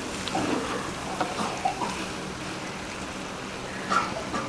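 Minced meat and potatoes sizzling steadily in an aluminium pot, with a wooden spatula scraping against the pot a few times and one louder knock about four seconds in.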